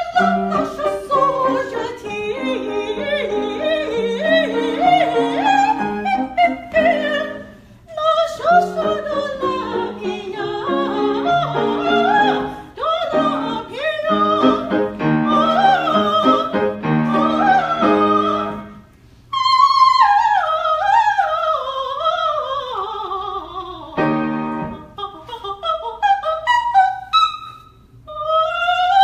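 Classical music: a high operatic voice sings a melody with fast descending runs, over piano accompaniment.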